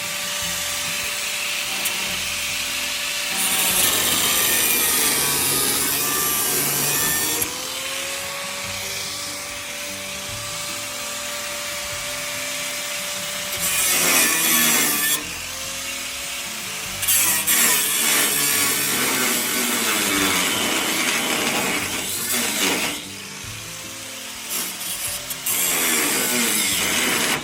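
Handheld electric power tool, a drill or grinder type, worked in several loud rough passes. Its motor whine dips in pitch under load and climbs back when eased off.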